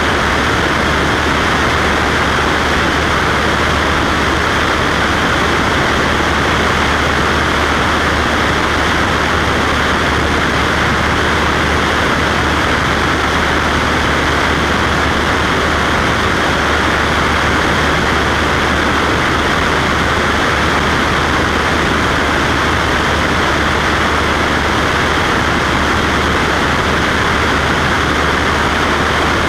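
Cessna Skywagon's piston engine and propeller running steadily at constant power, a continuous drone with a low hum under it.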